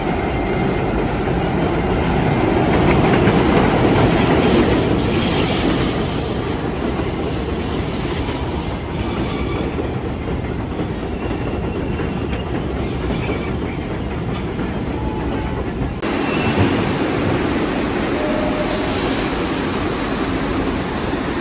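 New York City Subway 1 train running on its track: a steady rumble with high thin wheel squeals through the first part, loudest about four seconds in. The sound changes abruptly about sixteen seconds in and turns to a brighter hiss near the end.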